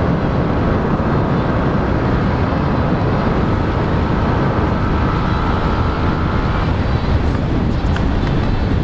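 Yamaha R15 V3's single-cylinder engine running at speed through its modified stock exhaust, with heavy wind rush on the microphone. A steady engine note holds for a few seconds in the middle.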